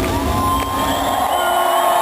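Concert crowd cheering, whooping and whistling as the band's final chord fades out.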